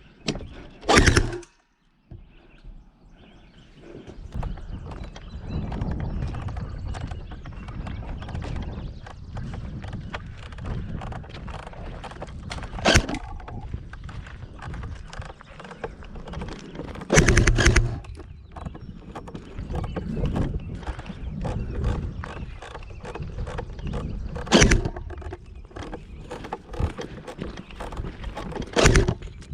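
Continuous rustling and crunching of a player moving over ground and through brush, broken by about five sharp, loud knocks or pops spread through it.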